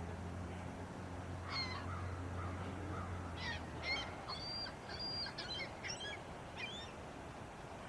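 Birds calling: a run of short, sharp calls and a few brief held whistle notes, over a steady background hiss. A low hum underneath cuts out about halfway through.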